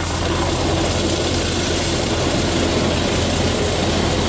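Heavy diesel logging machinery running steadily, a loud even engine and hydraulic drone with a low hum.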